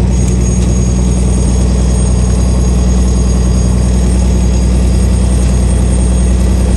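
Fishing boat's engine running, a steady low drone with no change in pitch.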